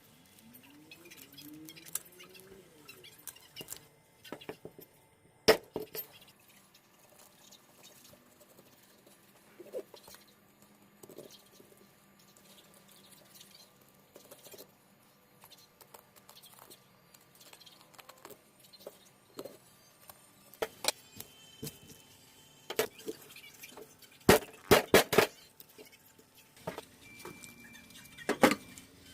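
Scattered clicks, scrapes and knocks of hand work on fresh fish, such as scaling and cutting with a knife, with a quick run of sharp, loud knocks near the end.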